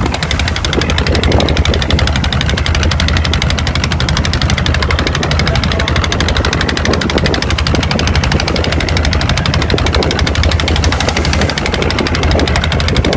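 A boat's engine running steadily at close range, with a rapid, even knocking beat and a deep rumble.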